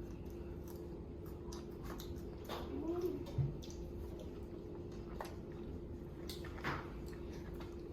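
Children chewing and eating fast food, with small clicks and squishy mouth sounds. A brief vocal sound comes about three seconds in, and a steady hum runs underneath.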